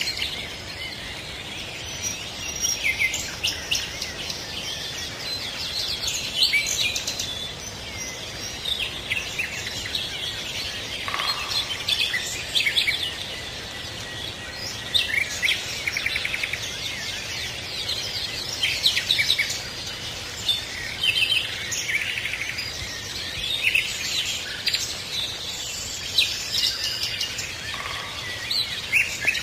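A chorus of songbirds, many short chirps and trills from several birds overlapping, over a faint steady background hiss.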